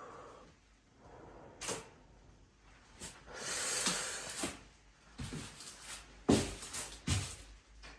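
Scattered knocks and clunks of objects being handled, with a brief rustling hiss about three seconds in; the loudest knock comes a little after six seconds.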